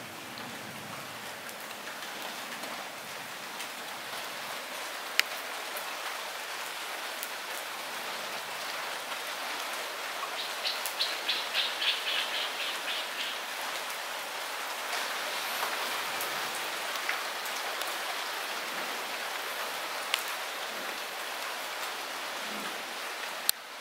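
Light rain falling steadily, with a few sharp single drips striking close by. About halfway in there is a brief, rapid, high-pitched chatter.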